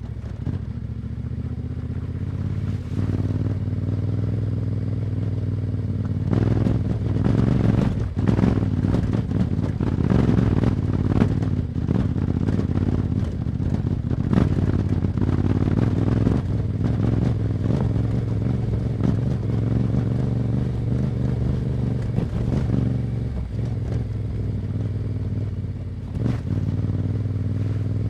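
Yamaha Ténéré 700's parallel-twin engine through an Akrapovic exhaust, pulling under load as the bike is ridden. The engine grows louder over the first few seconds and then holds, with its pitch rising and falling with the throttle. A few brief knocks come through along the way.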